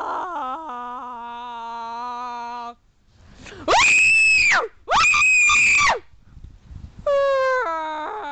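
A person's voice making deliberately annoying noises. First comes a drawn-out whine that steps down in pitch and holds low, then two loud, very high-pitched shrieks of about a second each, then another whine stepping downward.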